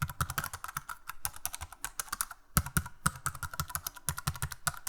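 Rapid, irregular clicking like typing on a computer keyboard, several clicks a second, with a brief pause about two and a half seconds in.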